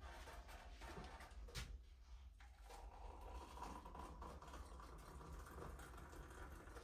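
Near silence: a faint low hum with a few soft clicks and light rustling, like small objects being handled in a small room.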